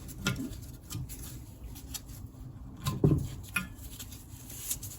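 Light clicks and taps of metal engine parts, such as the crankcase and bearing shells, being handled during an engine teardown, with the strongest knock about three seconds in.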